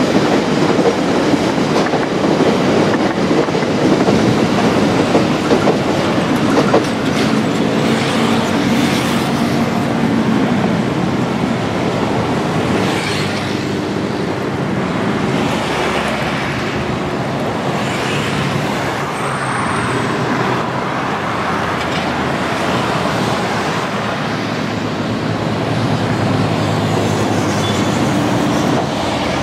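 Electric commuter train running past and away along the line, its wheels clattering over the rails, loudest in the first few seconds. Afterwards it gives way to a steady background of road traffic.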